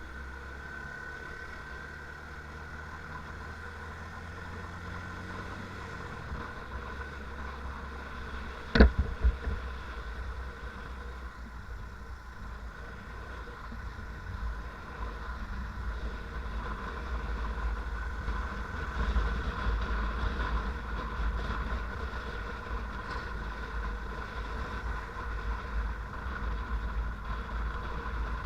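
Motorcycle engine running steadily on the move, with a low rumble and a steady hum throughout. One sharp knock comes about nine seconds in, and the sound grows gradually louder over the second half.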